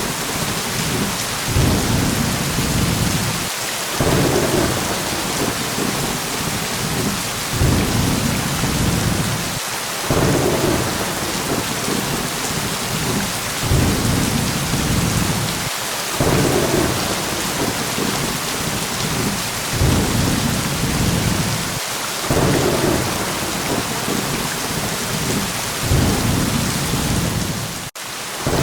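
Steady heavy rain with rolling thunder that swells low and rumbling about every six seconds. There is a momentary gap in the sound near the end.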